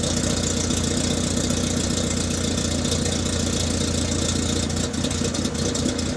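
Citroën Saxo 1.1i's four-cylinder petrol engine idling steadily, running evenly again after its fouled, oily spark plugs were cleaned to cure a misfire.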